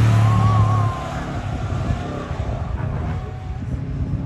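Subaru Impreza's flat-four engine running under load as the car passes on the track, loud for about the first second, then falling away as it drives off into the distance.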